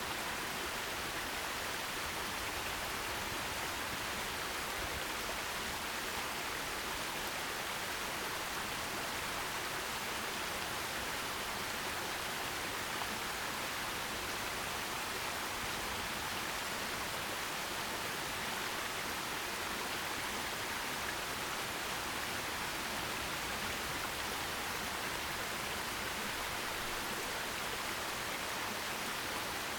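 Forest stream, water rushing and splashing over rocks in a steady, unbroken hiss with no distinct splashes or changes.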